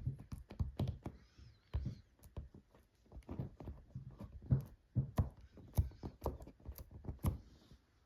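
A series of irregular knocks and thuds, about two to three a second, as things are moved and handled during the repair work.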